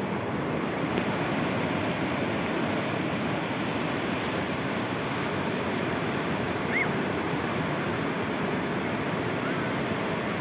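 Sea surf rushing steadily, a continuous wash of waves on the shore. About two-thirds of the way through there is one brief faint high chirp, and a fainter one near the end.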